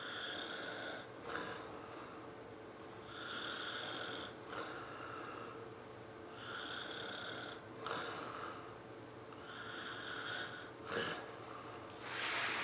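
Slow, even snoring breaths, four of them about three seconds apart, each lasting about a second. Short clicks fall between them, a sharper one about eleven seconds in, and a brief rustle comes near the end.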